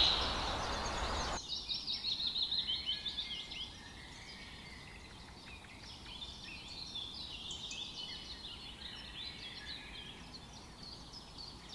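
Small birds chirping in the background, many short high chirps overlapping, after a brief hiss at the start.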